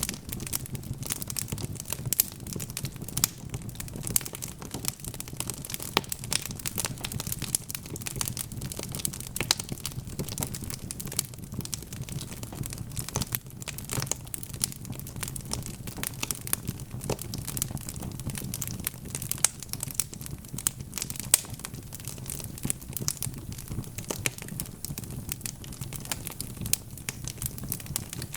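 Wood fire crackling: dense, irregular sharp pops and snaps over a steady low rumble of the flames.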